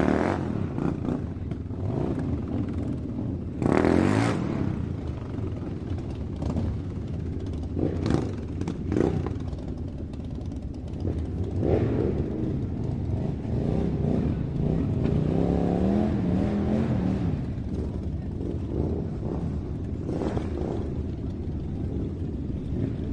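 A motor running with clattering and a few short louder surges, its pitch wavering up and down for a couple of seconds in the middle.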